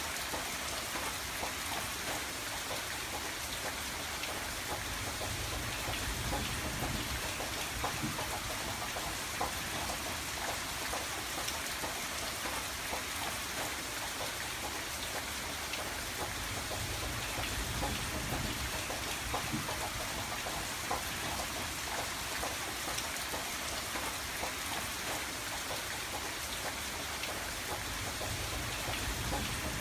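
Steady rain with many fine drops tapping, against a low rumble that swells and eases every few seconds.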